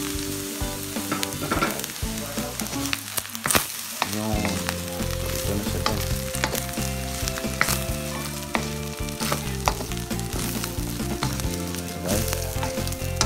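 Chicken and shrimp fried rice sizzling in a hot pan as it is stir-fried, with frequent short clicks and scrapes of the utensil against the pan.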